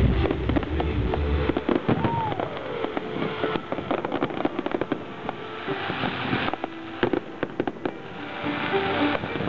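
Fireworks display: many rapid crackling pops and bangs, with stretches of hissing crackle in the middle and near the end.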